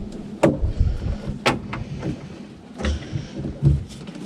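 Handling noise from working on a car's tail light: several separate sharp plastic clicks and knocks against the car body, with low rubbing and bumping between them.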